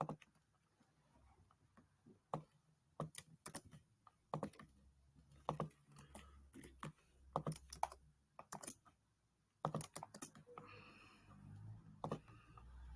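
Faint typing on a computer keyboard: scattered, irregular key clicks with short pauses between them.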